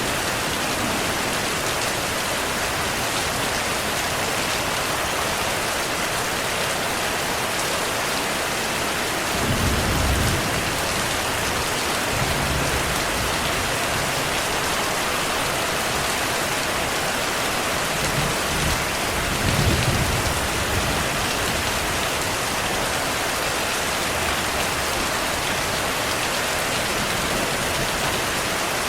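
Steady heavy rain, with low rumbles of distant thunder about ten seconds in and again near twenty seconds.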